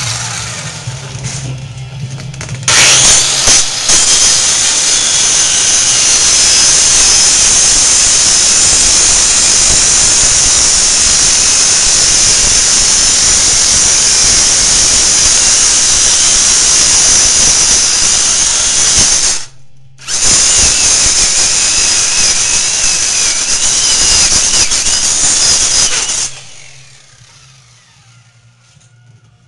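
A power tool running hard in a long stretch of about 17 seconds, then stopping briefly and running again for about 6 seconds before shutting off; a loud, high, hissing whine.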